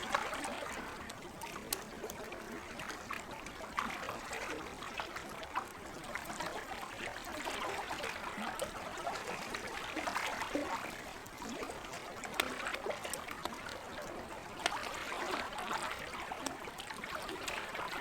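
Lake water gently lapping and trickling, with a campfire crackling over it in scattered sharp pops.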